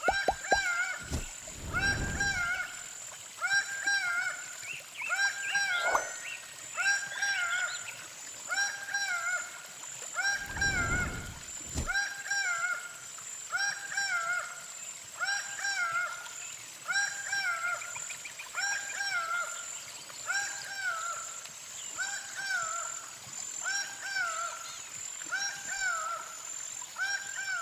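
A bird repeating one short, nasal call about once a second, very regularly. Low rumbles come near the start and again about eleven seconds in.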